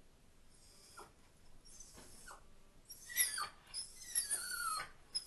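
A dog whining: a run of high, wavering squeals, loudest from about three seconds in and lasting around two seconds.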